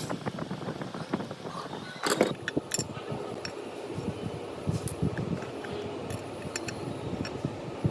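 Old metal ceiling-fan parts being worked by hand: a rapid, rough scraping with a few sharp metallic clinks, the loudest about two seconds in.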